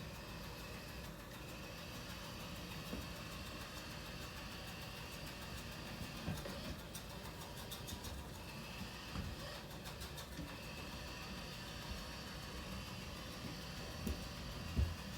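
Robot vacuum running steadily: a low motor hum with a faint higher whine, and a few light knocks along the way.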